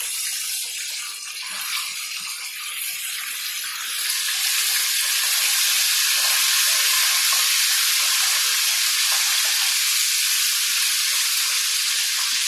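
Chicken pieces frying in hot oil in a pan, a steady sizzle that gets louder about four seconds in and stays there.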